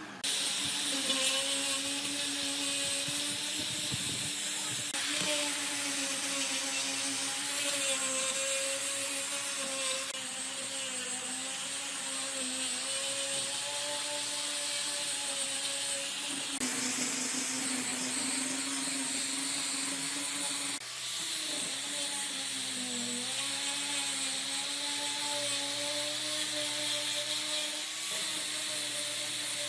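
Electric power tool running steadily, its pitch wavering slightly as it works, with a sharp change in tone every few seconds where clips are spliced together.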